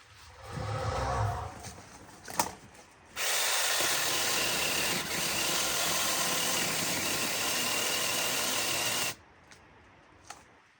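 A power tool runs steadily for about six seconds, starting and stopping abruptly, after a brief low rumble and a sharp click.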